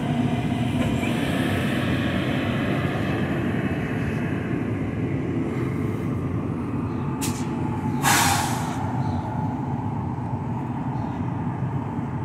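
NJ Transit ALP-46A electric locomotive and its train running slowly into the station to a stop, with a steady low rumble that slowly fades. About seven seconds in there is a short hiss of air, then a louder hiss of about half a second from the air brakes.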